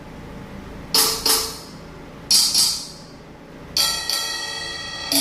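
Roland SPD-30 Octapad auditioning hi-hat samples from its sound library: three pairs of short, bright hi-hat hits about a second apart. The last pair is a ringing metallic hit that sustains with a bell-like tone.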